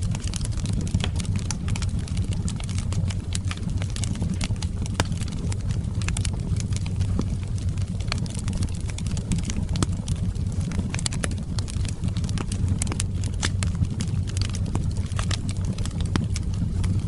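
Fireplace fire burning: a steady low rumble with frequent, irregular sharp crackles and pops.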